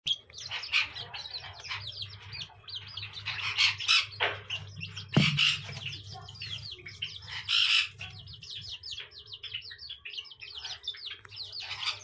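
Cage birds chirping and calling: a dense stream of quick high chirps with several louder, harsher calls, over a faint steady low hum.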